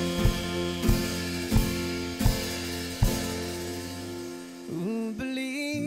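A band playing an instrumental passage of a song: the drums keep a steady beat over held chords, then stop about halfway, the bass fading out after them, and a wavering melody line comes in near the end.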